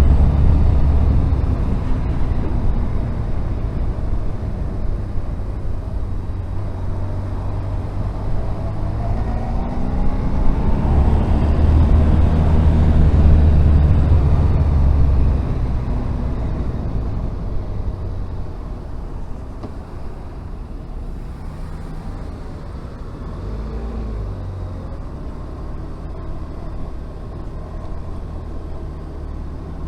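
Honda VFR1200F's V4 engine pulling away and rising in pitch, loudest for a few seconds near the middle. It then drops back to a quieter, steadier low-rev running for the last third.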